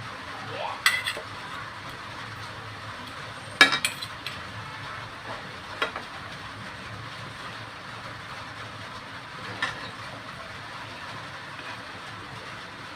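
Food sizzling steadily in a pan while a metal spoon stirs it, knocking sharply against the pan about four times.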